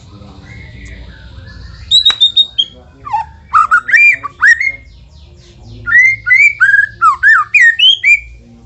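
White-rumped shama (murai batu) singing: fast, loud whistled phrases of notes sliding up and down, in bursts starting about two seconds in, with a short break around the middle.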